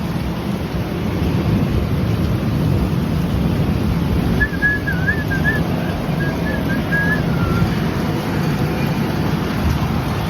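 Steady rush of rain and wind during a thunderstorm, heaviest low down. Near the middle, a thin, wavering whistle-like tone rises and falls for about three seconds.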